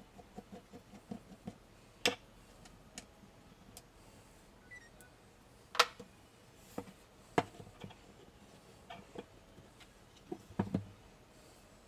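Metal parts of a PPSh-41 submachine gun being handled during disassembly: a run of soft taps, then scattered sharp clicks and knocks, with a small cluster near the end.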